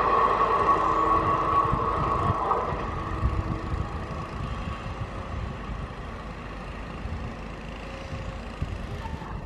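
Passenger train rolling past with a steady rumble and a ringing tone that dies away after a couple of seconds; the rumble fades as the train moves off.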